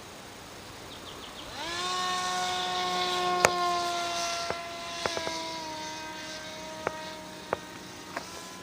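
A pusher-propeller model airplane's motor spins up quickly about one and a half seconds in, then runs at a steady whine that drops slightly in pitch about five seconds in. Sharp clicks or knocks come several times while it runs.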